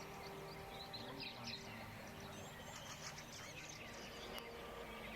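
Several birds chirping and twittering faintly in quick, varied short calls, over a steady low hum.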